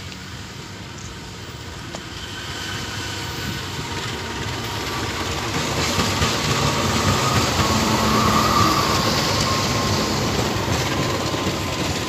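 Diesel locomotive hauling a passenger train past close by, growing louder as it approaches and loudest as the engine passes, about eight seconds in, then the coaches rolling by.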